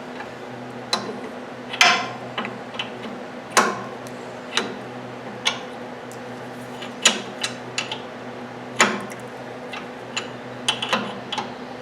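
Steel wrenches clinking and clicking on a double-nutted stud as it is turned into the housing by hand: about a dozen irregular sharp metal clinks over a steady low hum.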